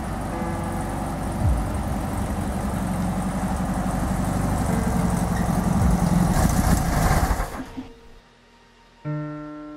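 Air-cooled flat-four engine of a classic Volkswagen Beetle running and growing gradually louder, then dying away quickly about three-quarters of the way through. Near the end a piano note starts up and rings on.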